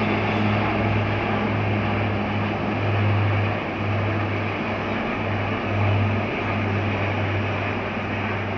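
Military jet aircraft flying over, heard as a steady rushing noise with a low hum underneath.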